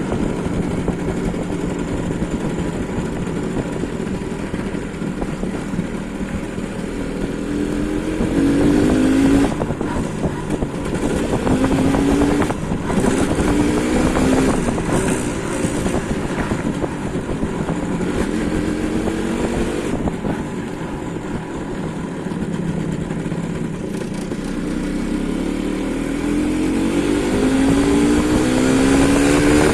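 MZ ETZ 150's single-cylinder two-stroke engine running, its pitch rising in short runs several times midway and then climbing in a long rise near the end as it is revved up.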